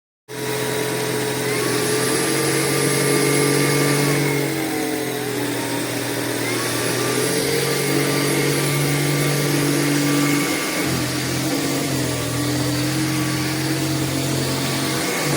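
Tineco A30S cordless stick vacuum running, starting suddenly a moment in; its motor whine steps up and down in pitch several times.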